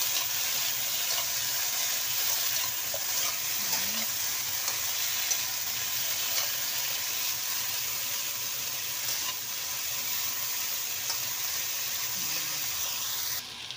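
Diced potatoes sizzling as they fry in oil in a non-stick wok, being cooked until they brown, with a spatula scraping and tapping as they are stirred. The sizzle drops off suddenly near the end.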